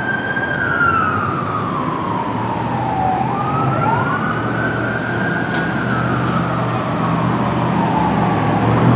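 Fire apparatus sirens wailing, rising and falling slowly, with a second siren's rise starting just after the first, over a low engine rumble from the responding fire engine and rescue truck.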